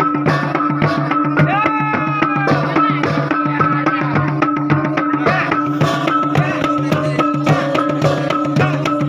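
Traditional gung-gendang ensemble music: quick, dense drum strokes over steady ringing gong tones, with a melody line that bends in pitch.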